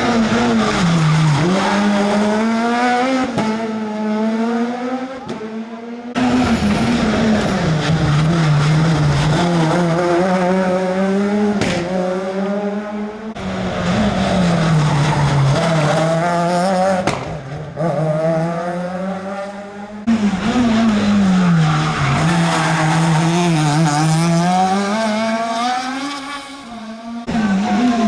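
Rally cars on a closed special stage, driven hard one after another. Each engine's pitch repeatedly drops and climbs as the driver brakes, changes gear and accelerates, and the sound jumps abruptly from one car to the next several times.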